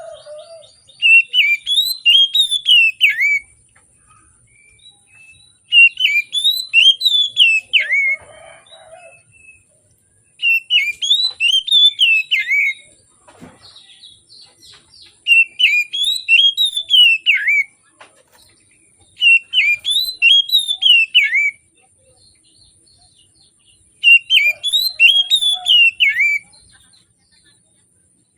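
Oriental magpie-robin singing, a short fast phrase of rising and falling whistled notes repeated six times, about every four to five seconds. A faint steady high-pitched whine runs behind it.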